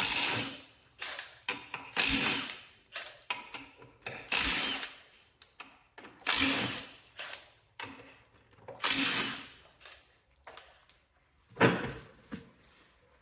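Socket ratchet wrench with a 3/4-inch socket clicking in repeated strokes of about a second each, working the wheel nuts off a garden tractor for a tire change.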